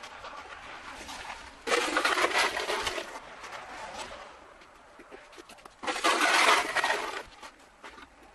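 Ice being scraped and broken up with a scraper: two rough, crunching scrapes of about a second each, with lighter scratching between.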